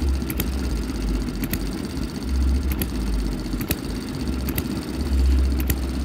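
Model hit-and-miss engine running slowly at scale speed, with its governor springs rewound to lower tension. Its low thudding comes in swells, firing and then coasting, and a sharp click sounds about once a second.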